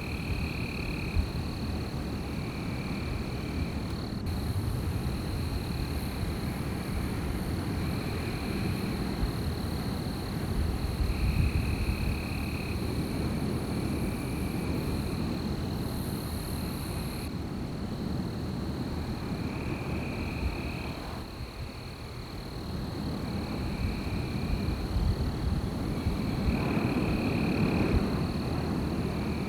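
Wind blowing in gusts, with a low rumble that eases off briefly about two-thirds of the way through. Over it, night creatures keep up a steady high trilling drone, and a short call of the kind frogs make repeats every second or two.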